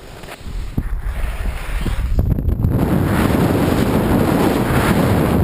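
Wind buffeting the microphone with a heavy low rumble and rush. It gets much louder about two seconds in and stays loud.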